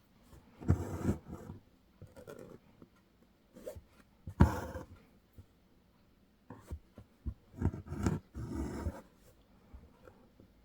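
Embroidery thread being pulled through hooped fabric while stitching: a handful of short, scratchy rasps with small handling taps, the loudest about four and a half seconds in.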